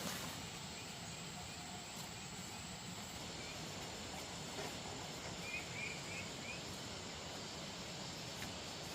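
Steady outdoor background hiss with a few faint, short bird chirps in the second half.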